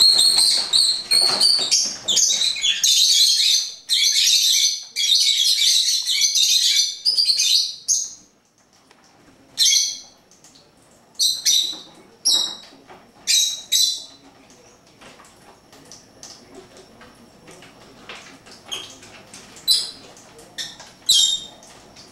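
Pet birds chirping loudly and rapidly, a dense high-pitched chatter that breaks off about eight seconds in. After that come scattered short chirps in small groups.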